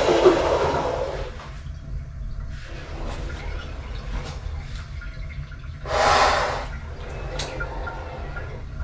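A loud machine noise dies away in the first second and a half, then water gurgles and drains over a low steady hum, with a short rush of water about six seconds in.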